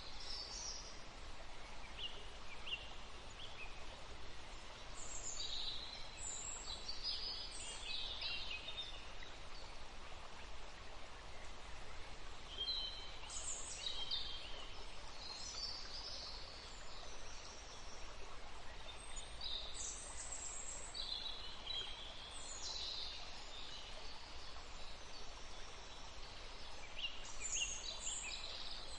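Forest ambience: a steady background hiss with birds calling and chirping intermittently, short high calls in scattered clusters.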